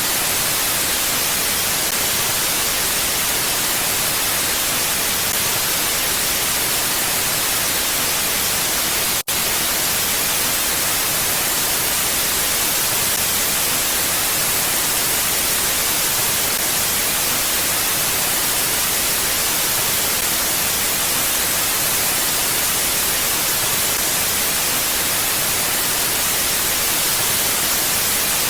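Steady, even hiss of a mountain-wind ambience track, bright and without gusts, with a brief dropout about nine seconds in.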